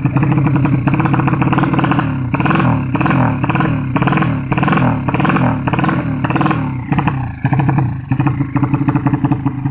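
Engine running, given short quick throttle blips about twice a second from about two seconds in until about seven seconds in, then settling back to a steady run, as the engine's tune is being set.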